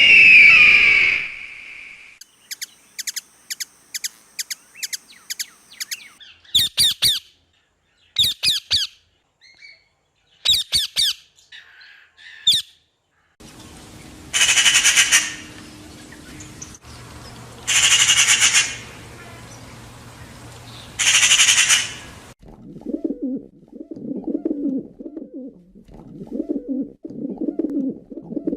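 Calls of several different bird species, one after another. A loud high screech comes at the start, then thin chirps and quick trills, then three harsh one-second screams about three and a half seconds apart. Low, repeated calls follow from near the end.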